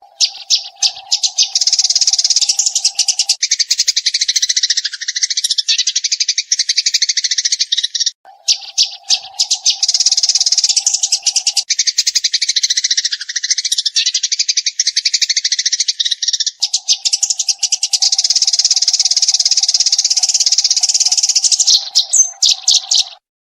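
Eurasian tree sparrow chattering in fast, continuous rapid-fire chirps, in three long bouts with short breaks between them, ending suddenly. A low steady hum runs beneath parts of each bout.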